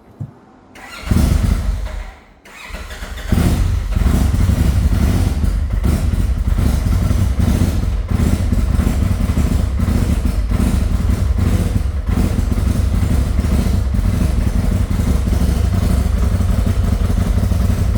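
Crate engine being started: it fires about a second in and dies again, then catches at about three seconds and keeps running steadily on the throttle. It won't idle on its own, and it misfires, which the owner puts down to a leaking head gasket letting coolant in.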